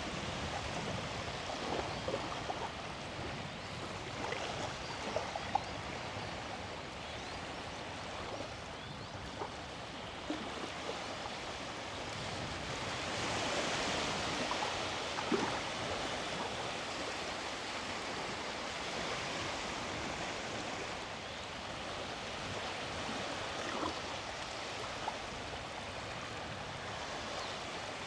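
Small sea waves washing onto the beach in a steady rush, swelling about halfway through, with faint short clicks scattered through it.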